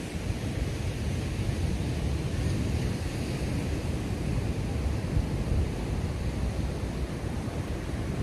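Steady wash of ocean surf with wind buffeting the microphone, a rough low rumble under a softer hiss.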